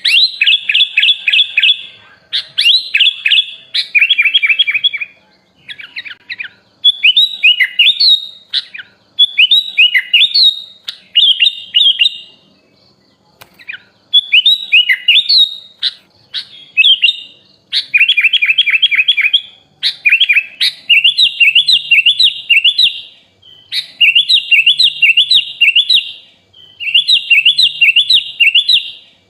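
Sooty-headed bulbul (kutilang) singing: loud phrases of quick, chattering, rising and falling notes, each a second or two long, with short pauses between them and a longer pause about halfway through.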